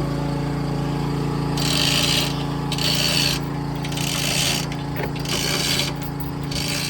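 A lifting ratchet worked in repeated strokes, about one raspy ratcheting burst a second, as the barge is levelled and the sunken sailboat is raised off the bottom. Under it a water pump's engine runs steadily.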